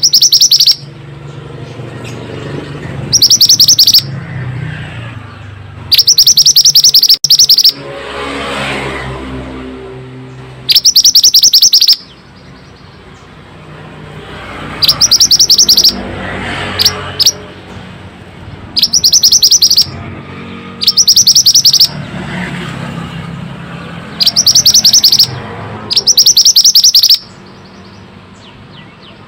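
Mantenan (bushchat) song: about nine loud, rapid rattling trills, each up to about a second long, repeated every few seconds with quieter gaps between.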